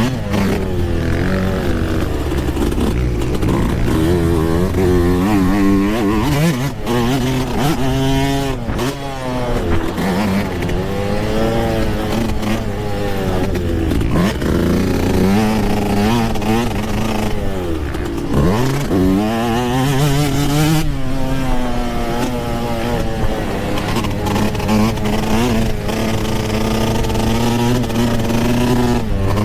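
Yamaha YZ125 single-cylinder two-stroke dirt bike engine ridden hard, its pitch climbing and falling over and over as the throttle is worked through the gears. About eighteen seconds in the pitch drops steeply off throttle and then climbs again, and near the end it holds a steadier pitch.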